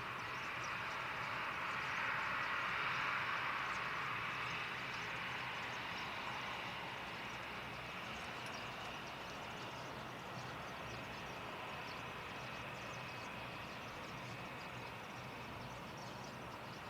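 Jet airliner engine noise that swells to a peak about two to three seconds in and then slowly fades away.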